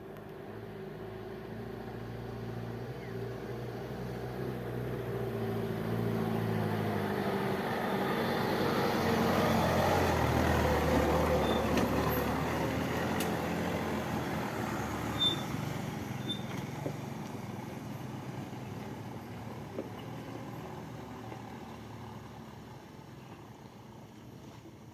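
Engine of a heavy, sand-laden truck straining up a steep incline. It grows louder to a peak about ten seconds in, then fades away as the truck moves off.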